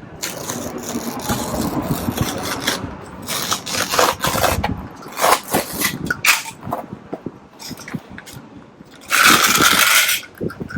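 Utility knife scraping and cutting through the woven backing of a carpet remnant in a run of uneven strokes, with one longer, louder stroke near the end.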